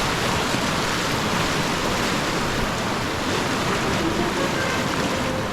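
Rushing whitewater of a river rapid: a steady, even rush of churning water.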